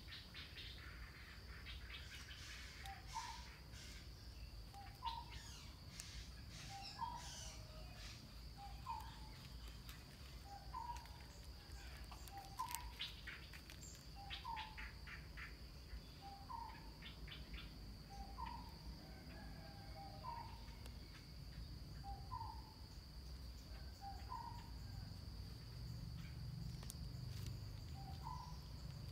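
A bird repeats a short rising call about every two seconds, with a pause of a few seconds near the end. Under it runs a steady high insect drone, and quick scattered chirps come through in the first half.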